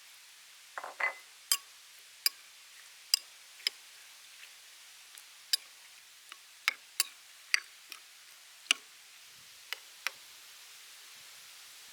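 Kitchen utensils tapping and clinking against dishes: about fifteen sharp, irregular clicks, with a short ringing clink about a second in.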